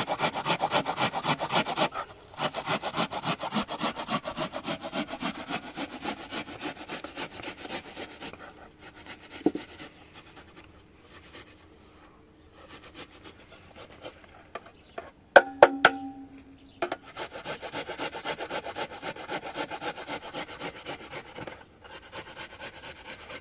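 Quick, steady rubbing or scraping strokes by hand. They stop about a third of the way in, give way to a few sharp clicks with a short ringing tone, then resume for most of the rest.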